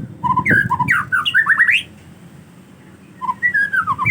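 A male white-rumped shama singing two quick phrases of varied, gliding whistled notes. The first runs for just under two seconds; after a short pause the second starts a little past three seconds in.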